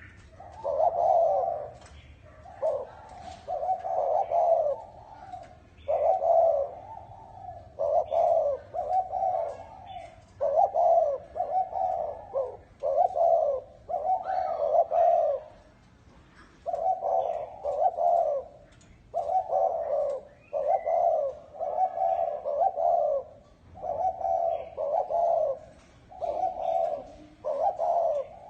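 Spotted dove cooing over and over in short, low phrases with brief gaps. This is the prized ringing 'chuông đồng' voice, used as a call to lure wild doves. Faint high chirps sound alongside.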